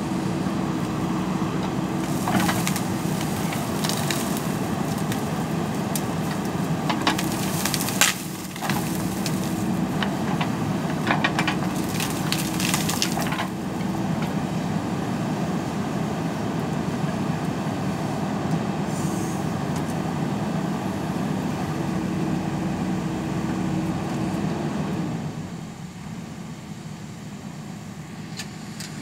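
JCB backhoe loader's diesel engine running under work, with repeated sharp clanks and cracking as the bucket works against earth and stone. Near the end the engine sound drops away and the whole sound becomes quieter.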